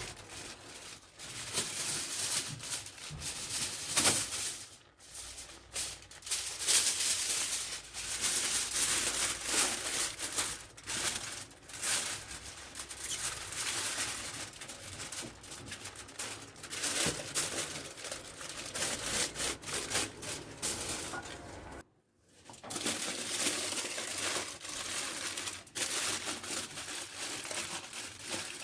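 Aluminium foil being crinkled and pressed around a clay tajine: irregular rustling crackles, breaking off briefly about two-thirds of the way through.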